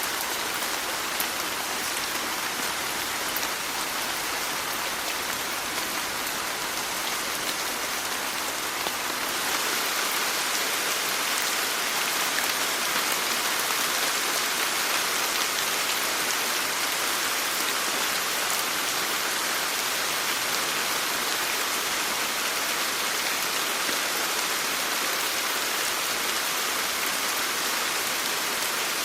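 Steady rain falling, an even hiss of rain on surfaces; it grows a little louder and brighter about nine seconds in.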